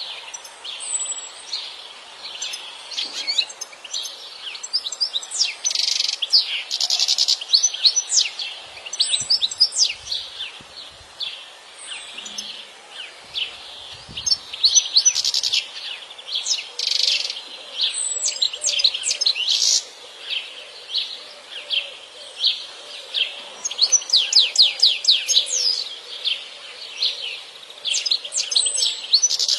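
European goldfinch singing: a continuous run of rapid, high twittering chirps and trills, coming in bursts with short gaps between phrases.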